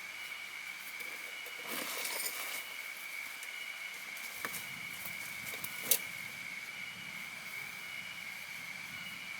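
Steady hiss of rain with a constant high-pitched drone running through it. A few sharp clicks stand out, the loudest about six seconds in.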